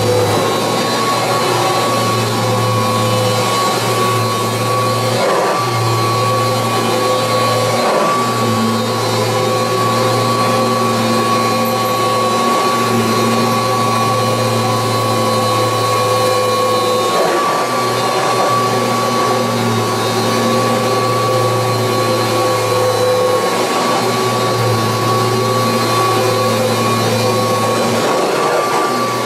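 Kirby Heritage 2 upright vacuum cleaner running steadily with a constant high whine over a low hum, the sound dipping briefly every few seconds.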